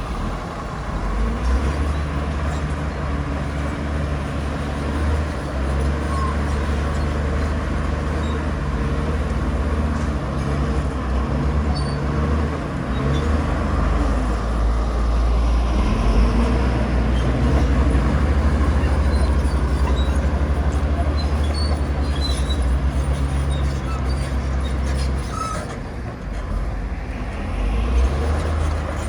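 Heavy diesel earthmoving machinery running: a deep, continuous engine rumble with a few scattered small clicks and knocks.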